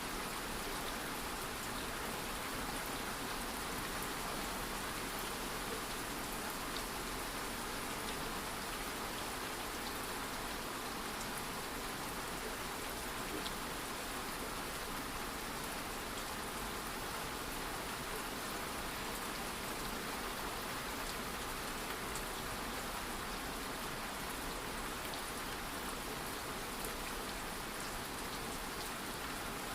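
Light rain falling steadily, an even hiss with a few faint drop ticks scattered through it.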